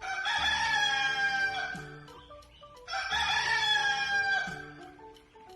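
Rooster crowing twice, two long cock-a-doodle-doo calls about a second apart, with soft background music underneath.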